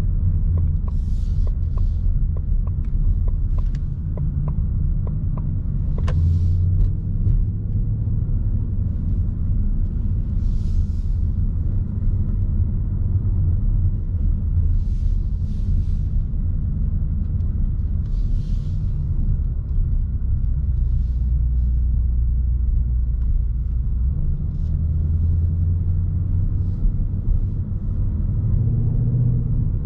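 2020 Ford Mustang GT's 5.0-litre V8 running at a low, steady drone while the car cruises gently in third gear, heard from inside the cabin with road noise beneath it.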